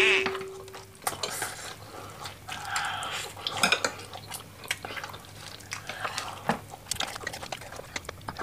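A metal fork and chopsticks clink and scrape against a ceramic bowl of fried noodles, with many short clicks all through. A ringing note fades out in the first second, and there is soft noodle-eating noise from a child about three seconds in.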